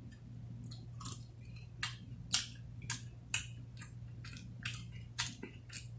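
A person chewing food close to the microphone, with wet mouth smacks and crunches coming about twice a second.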